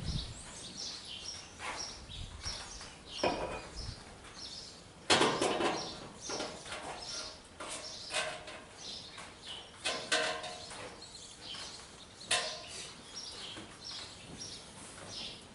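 Small birds chirping continually, with several sharp knocks and clanks at irregular intervals, the loudest about five seconds in.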